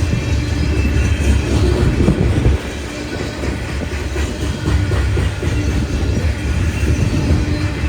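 A train rolling past with a steady low rumble, its wheels clicking over the rails in repeated clusters.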